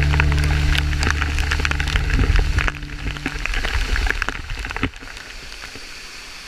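Sustained low notes of background music end about three and a half seconds in, over a dense crackling patter. Just before five seconds the sound drops to a steady, even rush of falling water.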